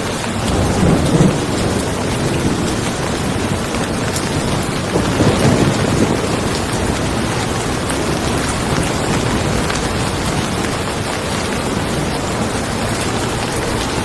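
Steady rain with two low rolls of thunder, one about a second in and a longer one around the middle.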